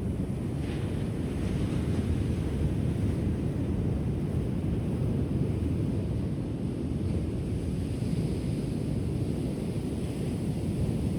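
Ocean surf washing onto a shore: a steady low rumble of waves, with a faint hiss of wash about a second in.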